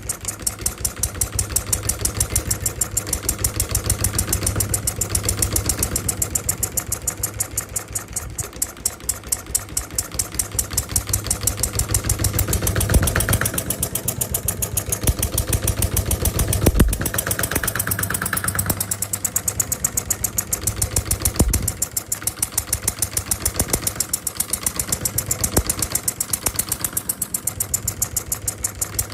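Small D16 kit diesel engine running steadily, its rapid firing beat even throughout, with a couple of sharper knocks partway through.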